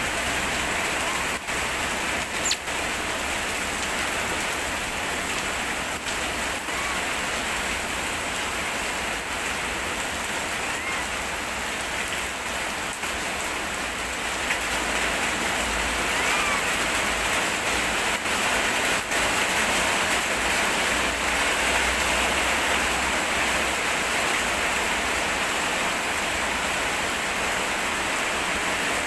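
Heavy rain falling steadily, a constant even hiss that grows a little louder about halfway through.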